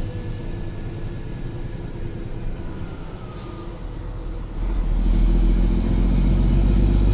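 Motor vehicle engine and road rumble, a steady low hum that gets louder about two-thirds of the way through.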